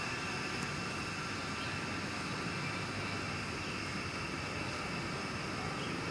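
Steady vehicle noise, an even unbroken rumble with a constant high whine running through it.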